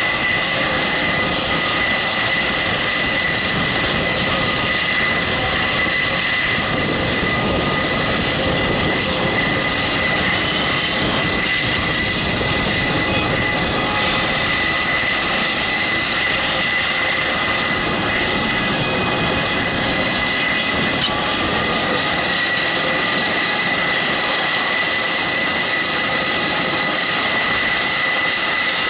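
Airbus A400M's four-blade-row Europrop TP400 turboprop engines running steadily on the ground: a loud, even rush with a high turbine whine held over it.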